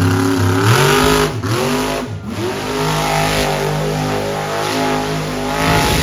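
Monster truck engine revving. The pitch drops off sharply twice in the first couple of seconds as the throttle comes off, then climbs back and holds steady at high revs.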